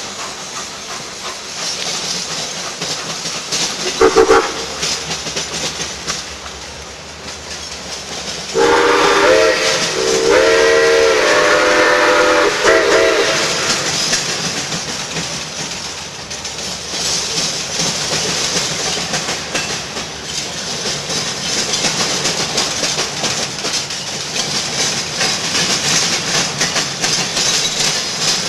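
Steam locomotive's chime whistle: a short toot about four seconds in, then a series of longer blasts from about nine to thirteen seconds in, over the steady running noise of a passing train.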